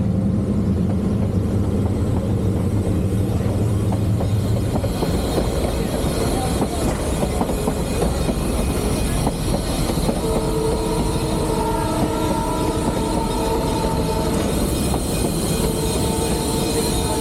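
Three-truck Shay geared steam locomotive running, heard from inside its cab: a continuous loud rumble and clatter. From about ten seconds in, a steady high tone with several pitches stacked above it sounds over the running noise.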